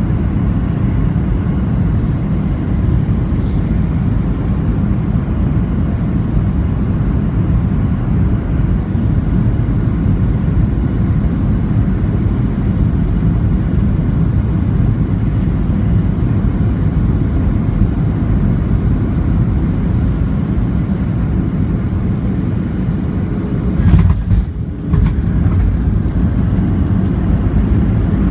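Boeing 737-800 cabin noise on landing: a steady, loud low rumble of engines and airflow. About 24 seconds in comes a sudden thump and rattle, the jolt of touchdown on the wet runway.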